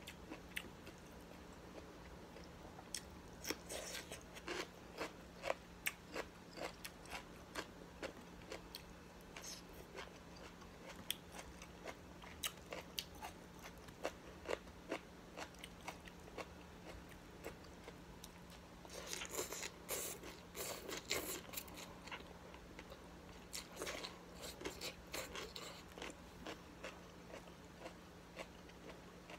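A person biting and chewing crisp raw vegetables, cucumber among them, with irregular crunches all through and denser runs of crunching about 19 to 21 seconds in and again around 24 to 26 seconds, over a steady low hum.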